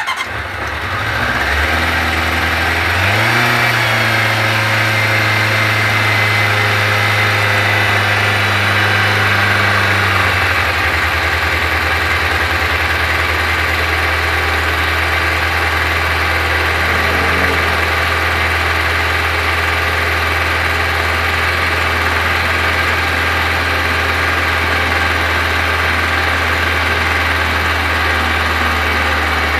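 Kawasaki ZZR400's inline-four engine starting up and catching at once. It wavers up in pitch with a brief rev about three seconds in, holds a fast idle, then settles to a lower steady idle about ten seconds in.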